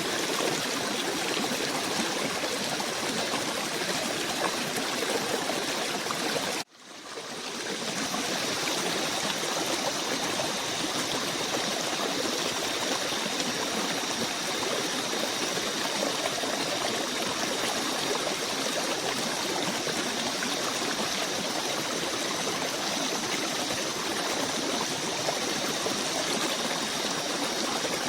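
A stream running steadily. About seven seconds in it cuts out suddenly and fades back in within a second, as at a loop or edit point.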